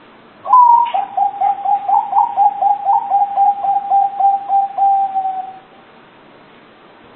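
Zebra dove (perkutut) cooing: one phrase that opens with a higher note and then runs into a long string of about sixteen quick, even coos, fading out after about five seconds.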